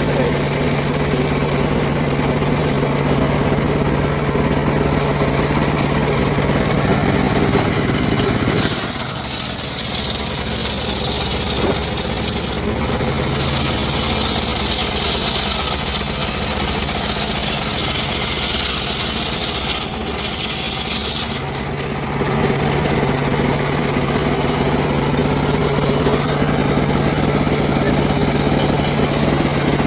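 Engine-driven wood saw running steadily, then cutting into a log for about thirteen seconds, from about nine seconds in, with a harsh high hiss of the blade in the wood while the engine note drops under load; it returns to free running near the end.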